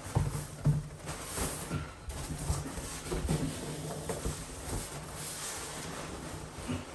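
Packing foam being pulled out of a cardboard box and handled: rubbing, scraping and a few light knocks.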